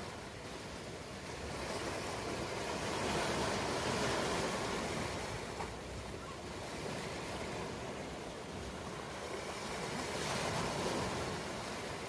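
Ocean waves washing onto a shore, a steady rush of surf that swells and eases every few seconds.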